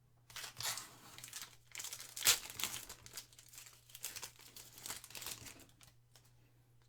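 Plastic wrapper of a trading-card pack being torn open and crinkled by hand, with a sharp rip a little after two seconds in; the crinkling dies away after about five and a half seconds.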